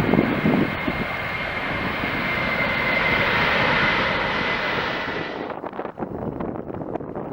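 Jet engines of an Airbus A330 passing on the runway: a steady rushing roar with a thin high whine. It is loudest midway, then the high end drops away suddenly about two thirds of the way in and the sound fades.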